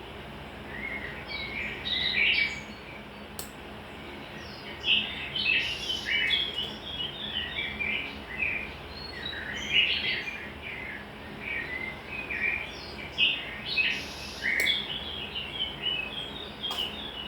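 Small birds chirping and twittering in quick irregular bursts, with a few sharp clicks among them.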